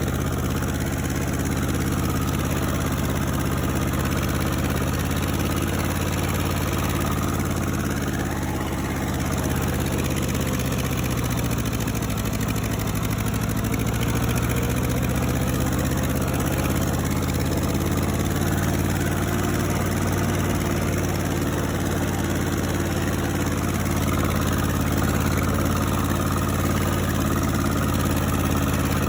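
Ford 8N tractor's four-cylinder engine running steadily under load, its pitch sagging a little about ten seconds in and climbing back.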